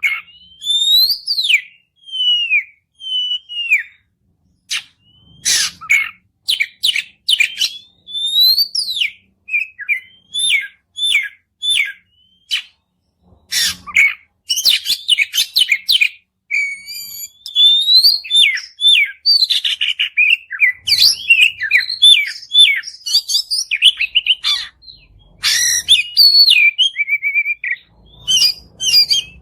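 Oriental magpie-robin (kacer) in long, vigorous 'gacor' song: varied loud whistled phrases with rising and falling notes, sharp clicks and quick trills, broken by a few short pauses.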